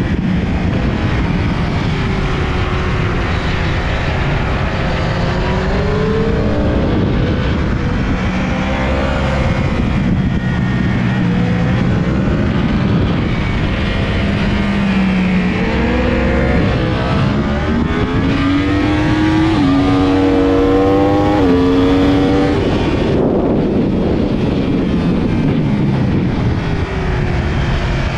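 Yamaha YZF-R1's inline-four engine at full throttle, its revs climbing and dropping in steps as it shifts up through the gears. Near the end the high-pitched edge cuts off suddenly and the revs fall away.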